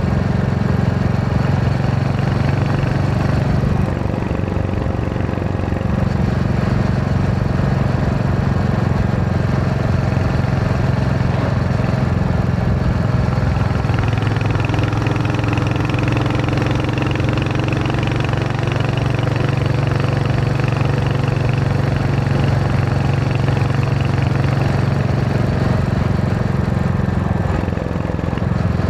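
Royal Enfield Hunter 350's single-cylinder engine running steadily while riding, with a brief dip in level about four seconds in and a slight change in its note near the middle.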